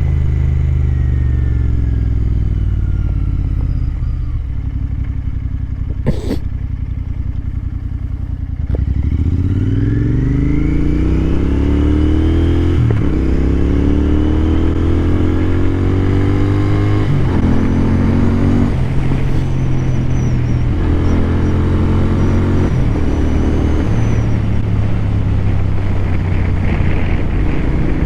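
Royal Enfield Continental GT 650 parallel-twin engine, heard from the rider's helmet, slowing and winding down for the first eight seconds or so, with a single click about six seconds in. Then it pulls away hard, the pitch climbing and dropping back at each of several upshifts before settling into a steady cruise.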